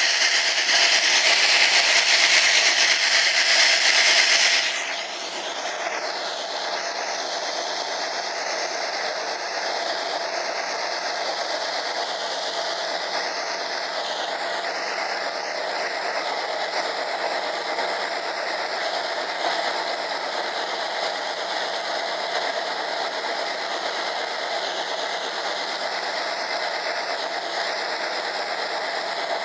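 Train running through a railway tunnel, heard from aboard: a steady, loud rumble and hiss. About five seconds in, the high hiss drops away suddenly and the noise settles a little quieter.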